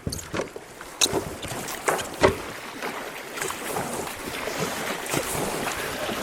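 Kayak paddles splashing into the water in quick strokes for the first couple of seconds, then a steady wash of water and wind noise as the kayaks glide.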